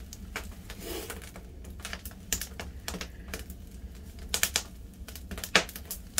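Firewood burning and crackling, with irregular sharp pops and snaps over a low steady rumble.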